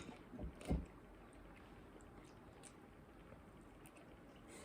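A person eating close to the microphone: three short chewing or food-handling noises in the first second, then only a faint steady hiss.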